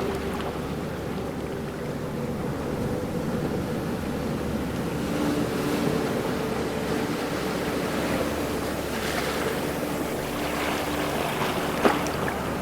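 Ocean waves washing in a steady rush, with a faint low hum underneath and a single sharp click near the end.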